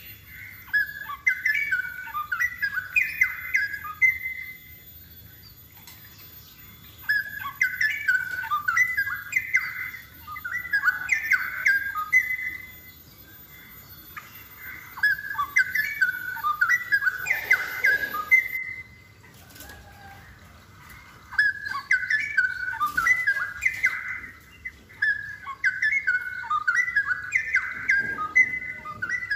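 Straw-headed bulbul singing its loud, rich, bubbling warble in bouts of a few seconds, separated by short pauses, about five bouts in all.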